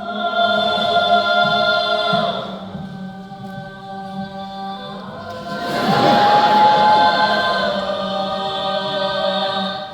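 A cappella group singing sustained chords in harmony, swelling louder about six seconds in with a high note held on top.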